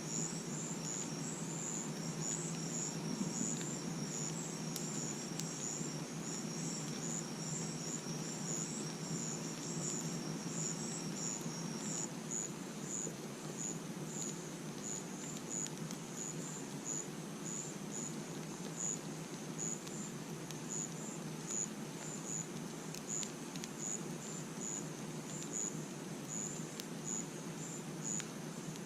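Crickets chirping: evenly spaced high chirps throughout, with a second, continuous trill that stops a little under halfway through. Underneath, a campfire burning with a steady low rumble and a few faint crackles.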